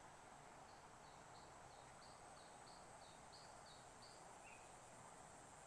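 Near silence, with a small bird giving a faint run of about a dozen short high chirps, roughly three a second, over the first four seconds, above a faint steady high whine.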